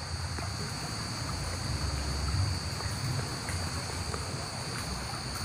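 Low rumble of wind on the microphone under a steady, high insect drone, with a few faint scattered clicks.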